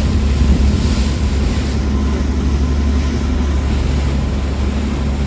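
Passenger ferry's engines running with a steady low rumble, with wind blowing on the microphone.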